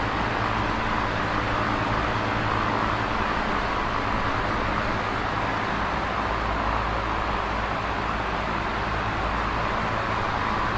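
Electric fan running steadily: an even rush of moving air with a low, steady motor hum beneath it.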